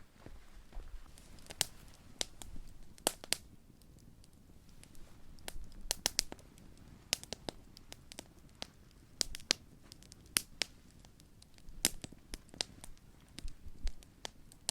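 Large wood campfire burning, with the wood crackling and popping in sharp, irregular snaps over a low, steady sound of the flames.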